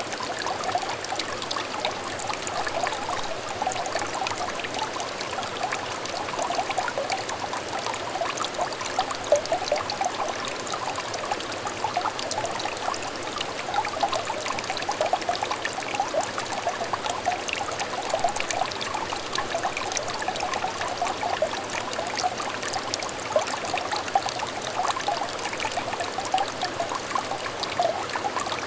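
A small stream of water trickling and babbling steadily over stones, with many quick little splashes and bubbling notes.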